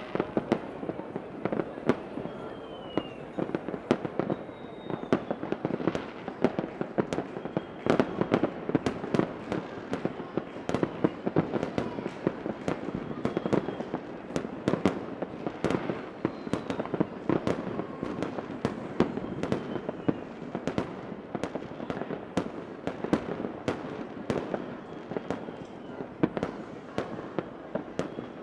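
Fireworks going off without a break, many bangs and pops in quick succession, with a few faint falling whistles here and there.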